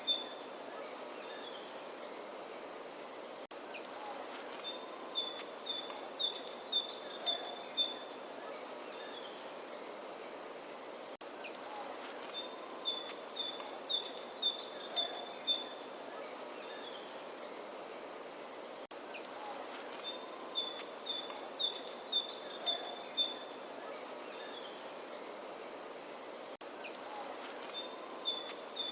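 A songbird singing the same phrase over and over: a couple of high notes sliding down, then a quick run of repeated chips on two alternating pitches. The phrase comes back about every seven to eight seconds, identical each time as in a looped recording, over a faint steady outdoor hiss.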